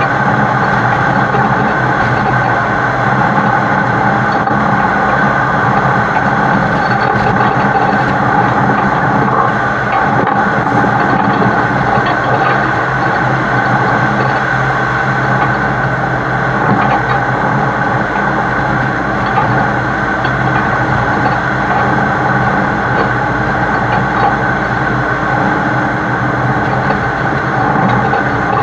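Heavy-haul truck's diesel engine running steadily and loudly, heard close up from the truck's side, with a dense even noise over it.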